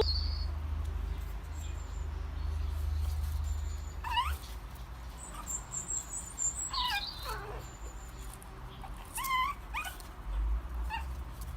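A dog whimpering in a few short, high, sliding whines spread a few seconds apart.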